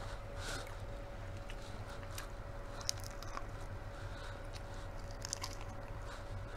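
Close-up eating sounds: biting kernels off a cob of corn on the cob and chewing, with scattered small crunches and wet mouth clicks over a faint steady hum.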